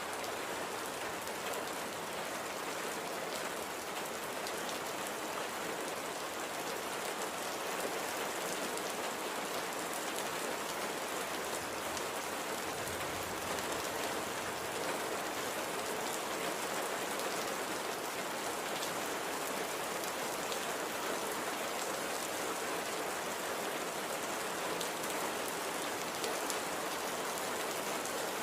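Steady light rain falling, a continuous even hiss with the fine patter of drops hitting a surface.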